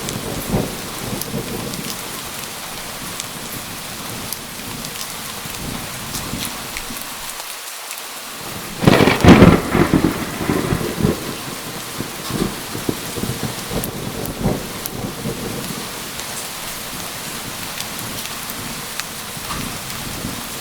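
Steady heavy rain falling, with a loud close thunderclap about nine seconds in that rumbles and crackles for a couple of seconds before the rain carries on.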